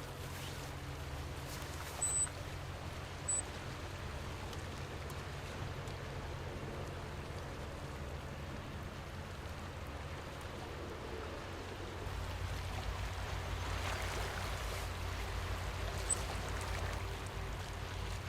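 Sea water washing and trickling among shoreline rocks and seaweed: a steady splashing noise with a low rumble that grows a little louder about two-thirds of the way through. Two short, sharp high ticks stand out about two and three seconds in.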